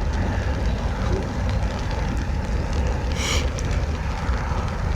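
Rain pattering on an umbrella over a steady low rumble, with a brief hiss about three seconds in.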